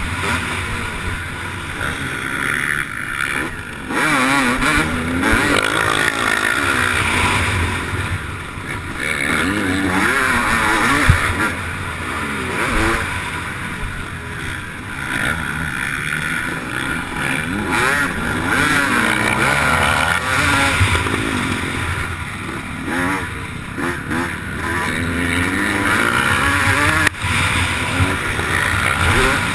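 MX1 motocross bike engine racing, revving up and falling back again and again as the throttle is worked, heard from a camera mounted on the bike or rider. A sharp knock stands out about eleven seconds in.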